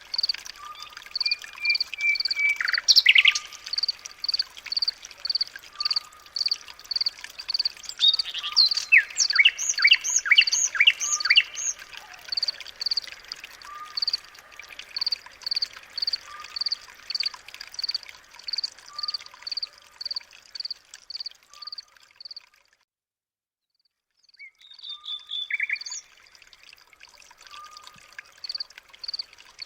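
Birds calling: one bird repeats a short high chirp about twice a second while another sings a quick run of notes, with a lower call repeating every couple of seconds. All sound cuts out for about two seconds some 23 seconds in, then the chirping resumes.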